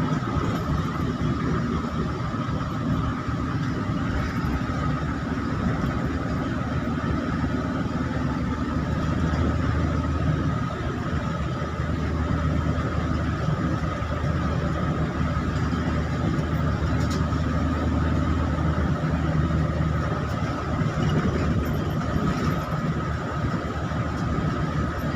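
A motor vehicle running steadily at speed on a highway: a continuous low engine drone with an even road-noise hiss and a steady high whine, without changes.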